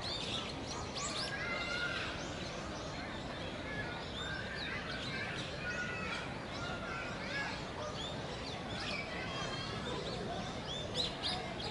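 Birds chirping and calling: many short, quick notes and rising sweeps, some in short repeated series, over a steady background hum.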